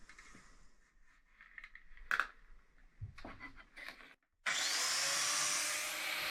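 Faint clicks and rustles of handling. After about four and a half seconds an angle grinder with a flap disc starts up with a brief rising whine and runs steadily, grinding the welds on steel horseshoes.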